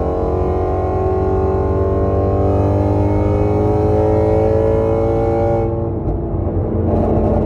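2017 Ford Mustang Shelby GT350's 5.2-litre flat-plane-crank V8, with resonator-delete X-pipe and off-road mid pipes, pulling with a slowly rising engine note. About five and a half seconds in the throttle closes and the note drops, and exhaust pops and crackles on the overrun start near the end.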